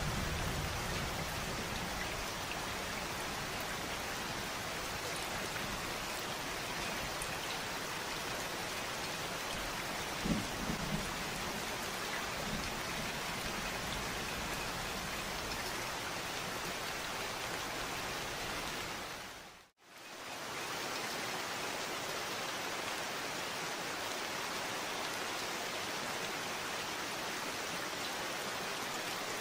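Steady rain falling, an even hiss of drops, with a low rumble underneath at the start and a few brief low knocks a third of the way in. About two-thirds through, the rain fades out to silence for a moment and fades back in.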